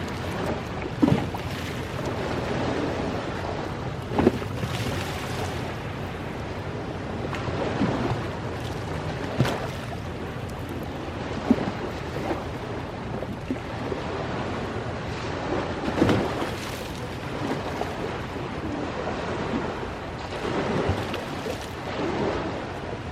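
Ocean waves washing in steadily while a wood campfire crackles, with sharp pops from the burning wood every few seconds.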